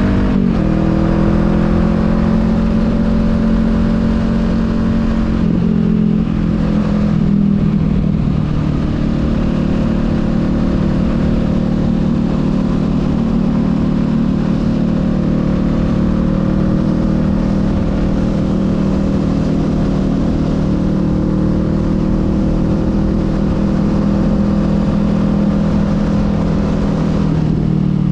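Honda Rebel 500's parallel-twin engine running at steady road speed under a rush of wind noise, its note shifting briefly about six to seven seconds in and again near the end as revs change.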